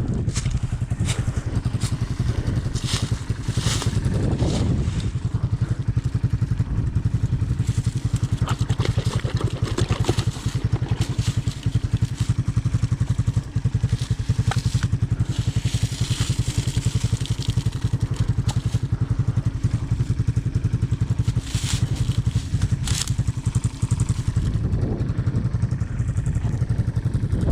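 Honda ATC 200M three-wheeler's single-cylinder four-stroke engine running steadily with an even low pulse. Occasional clicks and knocks sound over it.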